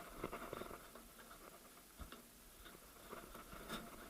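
Faint scattered clicks and light metallic taps as the shift rod and fork are handled and taken out of a VAZ front-wheel-drive manual gearbox, with one sharper tap about two seconds in.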